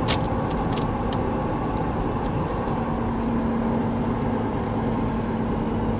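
Steady engine and road noise of a moving vehicle, with a low engine hum that comes in about halfway through.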